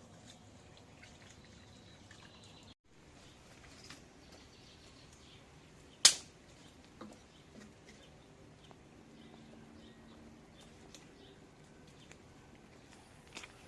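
Low background ambience with a single sharp knock about six seconds in, followed by a few fainter clicks.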